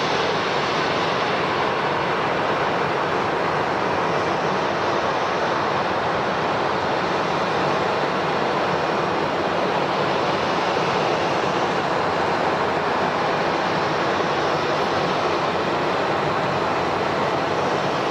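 Jet airliner engines running, a steady roar with no breaks and little change in level.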